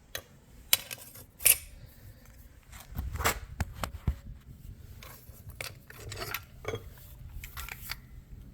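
Metal parts of a torn-down Turbo 350 automatic transmission being handled, clinking and clanking against each other and the work surface in an irregular series of sharp knocks, the loudest two close together in the first second and a half.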